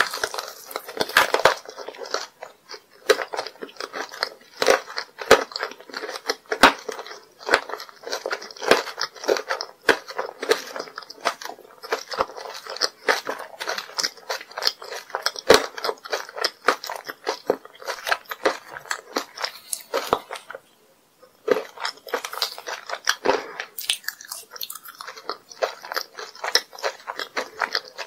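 Close-miked mouth sounds of chewing soft, chewy jelly candy: a dense run of wet, sticky clicks and small crunches, with one brief pause about two-thirds through.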